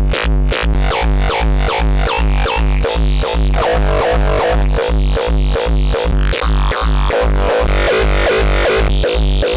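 Heavily distorted raw hardstyle kick drum looping in steady time, about two and a half kicks a second, each hit sweeping down in pitch into a long, distorted tail.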